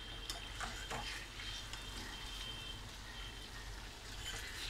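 Chicken karahi sizzling in a karahi while a metal spoon stirs it, the masala almost cooked down. A few light clicks of the spoon against the pan come in the first second.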